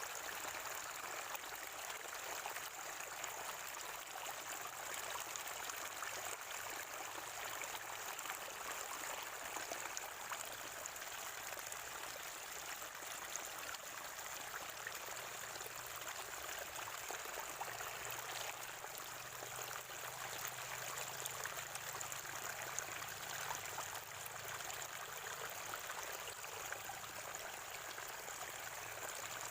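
Natural spring water gurgling and trickling steadily.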